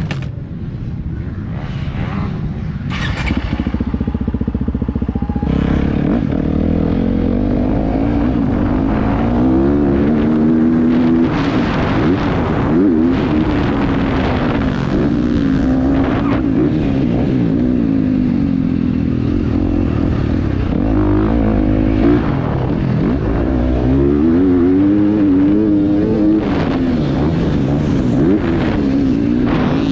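2026 KTM 350 XC-F's single-cylinder four-stroke engine revving up and down again and again as the dirt bike accelerates, shifts and backs off around a motocross track, heard from a helmet-mounted camera. The engine sounds lower and steadier for the first few seconds.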